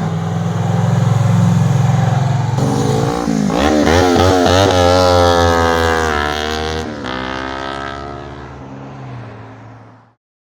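Vehicle engine running with a steady hum, then revving up and down several times from about three seconds in, fading out near the end.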